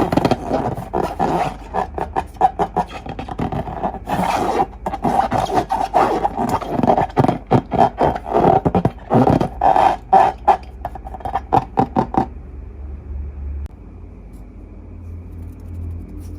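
Slime and balloons being worked by hand: a dense run of rubbing, scraping strokes with a squeaky edge that stops about twelve seconds in, leaving only faint handling sounds.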